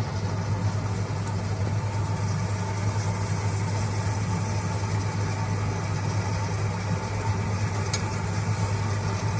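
Farm machine's engine running steadily at an even speed: a constant low hum that holds the same pitch throughout.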